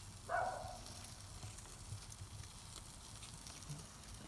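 Wood fire crackling and hissing in a wood-fired pizza oven, with a low steady rumble underneath. A short, louder sound comes about a third of a second in.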